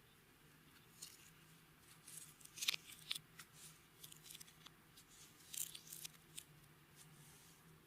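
Clear slime being worked by hand, giving faint, sticky little clicks and crackles in two small clusters, over a faint low steady hum.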